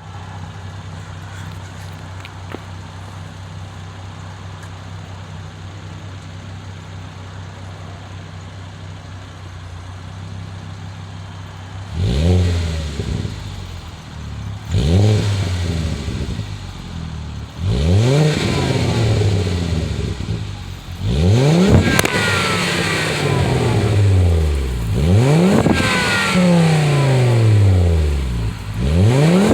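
Exhaust of a 2008 Volvo C30 T5's turbocharged 2.5-litre five-cylinder, through a Magnaflow muffler with the resonator deleted. It idles steadily for about twelve seconds, then is blipped in a series of quick revs every two to three seconds, each climbing sharply and falling back to idle.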